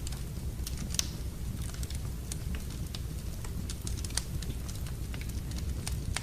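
Wood fire in a fireplace crackling, with irregular sharp pops over a steady low rumble; the loudest pops come about a second in and again just after four seconds.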